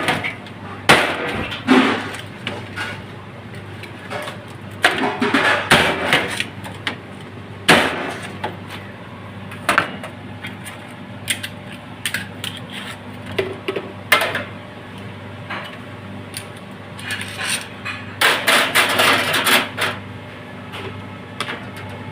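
Irregular knocks and clatter of kitchen work, some in quick flurries, over a steady low hum.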